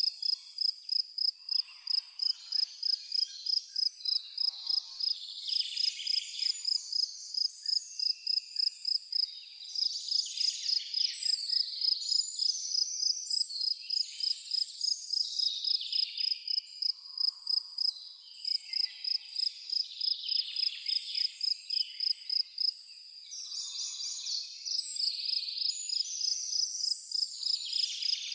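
A cricket chirping steadily, an even run of high chirps about two to three a second, with songbirds singing over it.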